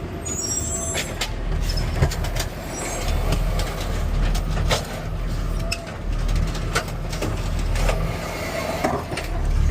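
Garbage truck engine running steadily, with scattered knocks and rattles from the truck's body and equipment. A brief high squeal comes near the start.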